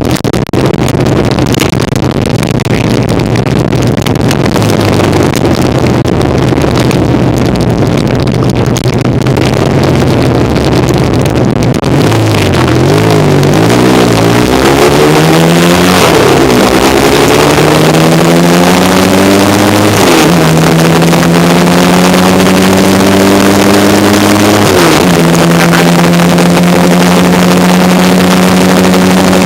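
1975 Kawasaki KZ400 parallel-twin motorcycle engine running at low revs under wind and road noise, then accelerating through the gears: from about halfway in the engine note climbs, drops back at each of three upshifts, and then holds steady at cruising speed.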